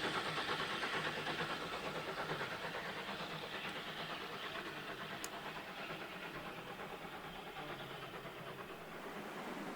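Steam locomotive and its train running past, a dense rushing sound with a rapid, even pulse that slowly fades as the train draws away.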